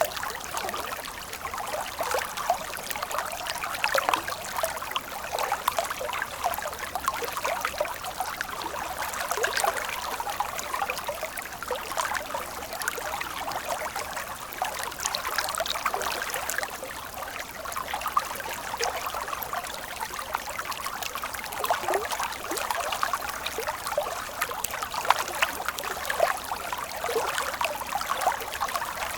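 Stream water flowing and trickling, a steady babble of many small splashes and gurgles.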